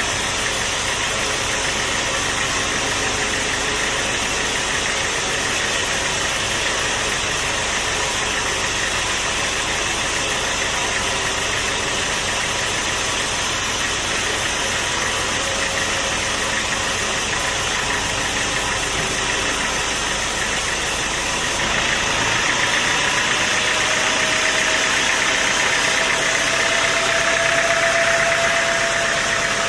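Sawmill machinery running with a steady mechanical noise. About two-thirds of the way through the low rumble drops away and a faint whine appears, slowly rising in pitch.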